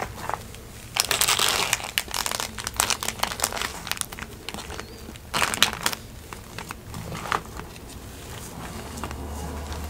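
Paper food wrapper crinkling in bursts, loudest about a second in and again a little past halfway, with sharp crackly clicks in between.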